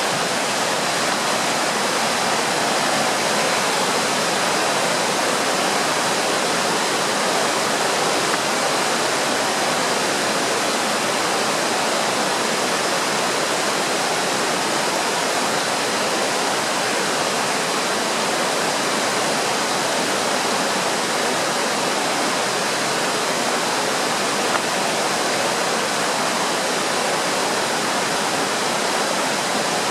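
Steady rushing of river water, an even unbroken wash of noise, with a faint thin high tone held over it.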